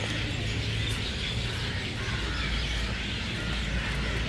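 A flock of parrots chirping and calling in a fruiting guava tree, steady throughout over a constant low rumble.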